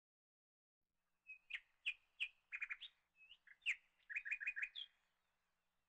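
A small bird chirping in two short bursts of quick, sharp twittering notes with brief whistles, the first starting about a second in and the second ending a second before the end.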